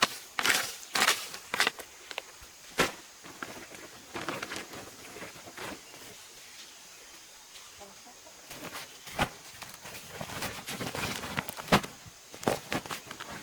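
Chickens clucking, with sharp knocks about every half second at the start and a few more near the end.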